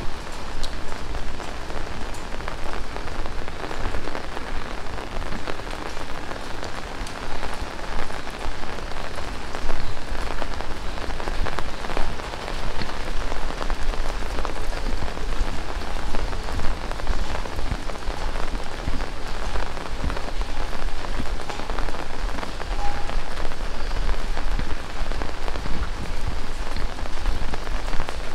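Heavy rain falling steadily in a dense hiss, with many single drops ticking sharply on surfaces close by.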